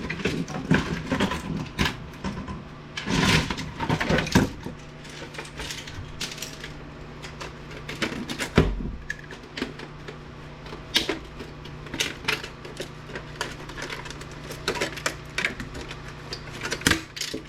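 Irregular clicks, knocks and rattles of plastic and metal parts being handled as an APC battery backup unit is taken apart and its plastic clips are worked loose. A denser clatter comes about three seconds in and a dull thump near the middle, over a low steady hum.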